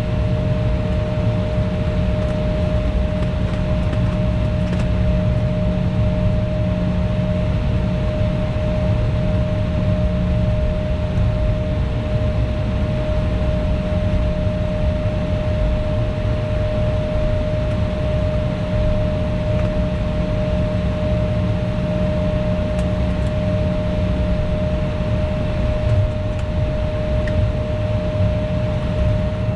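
Cabin noise of an Embraer E175 airliner taxiing: its CF34 turbofan engines running at idle, a steady whine over a low rumble.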